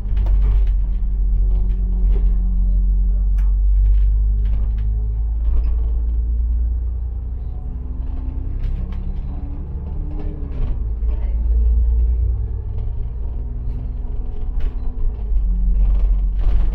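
City bus engine running with a deep rumble as the bus drives, its note shifting up and down around the middle, heard from inside the cabin with scattered clicks and rattles from the bodywork.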